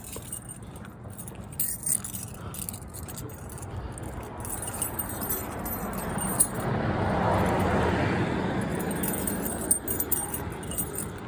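A car passing, its road and engine noise swelling to a peak about seven seconds in and then fading, over light metallic jingling like keys jangling during walking.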